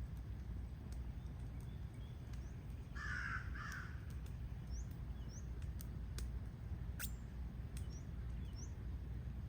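Crow cawing twice in quick succession about three seconds in, over a steady low outdoor rumble, with faint high bird chirps and a few sharp clicks.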